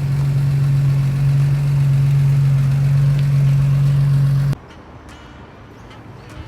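A car engine running steadily at idle close by, a loud, even hum that cuts off suddenly about four and a half seconds in, leaving a much quieter background with a few faint clicks.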